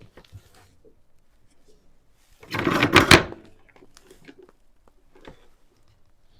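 Handling noise from a mini fan's plastic parts being taken apart: scattered light clicks and knocks, with one louder scraping rustle lasting under a second about two and a half seconds in.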